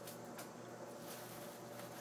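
Quiet room tone: a steady low hum with a couple of faint clicks.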